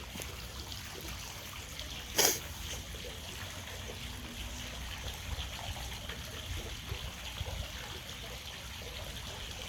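Steady trickling of water, with one short, sharp sound about two seconds in.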